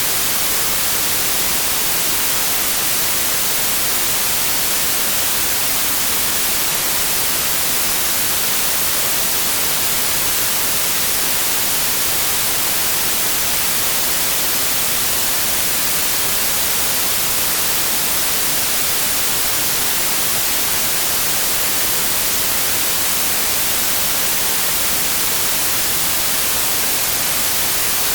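Synthetic white noise: a steady, even hiss with no changes, strongest in the highs.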